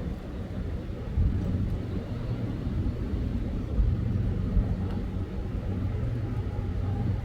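Train's diesel locomotives running with a steady low rumble and engine drone.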